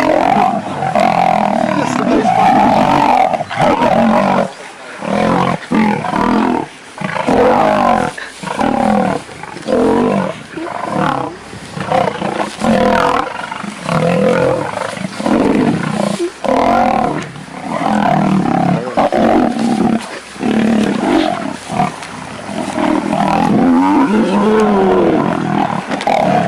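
Male lions fighting, snarling and roaring in a long run of loud, rough bursts, each about a second long, with short breaks between them.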